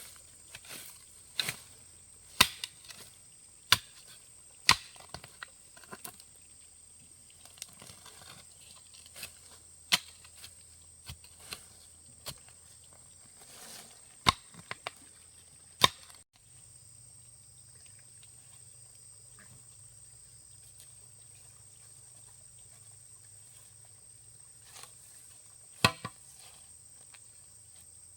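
A hand tool chopping, sharp separate strikes about one a second, each with a little ring; they stop about halfway, and two more come near the end. A faint steady high hiss runs behind.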